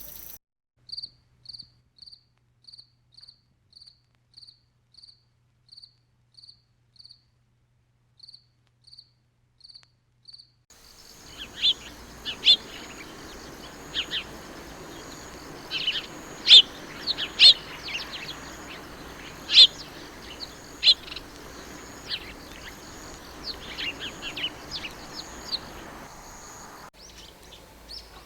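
A cricket chirps evenly, about twice a second, against a quiet background. About eleven seconds in, outdoor ambience takes over: birds chirp in scattered calls over a steady high insect buzz.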